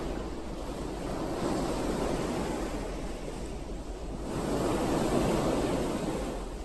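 Ocean waves breaking and washing up the shore, two surges of surf a few seconds apart, each swelling and then fading.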